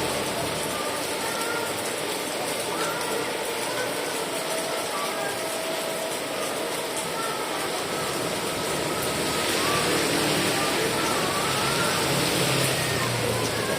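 Steady rain, an even unbroken hiss, with faint voices under it.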